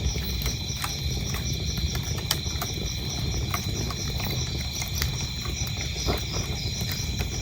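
Wood fire crackling, with scattered sharp pops over a low rumble of burning, and crickets chirping steadily at a high pitch throughout.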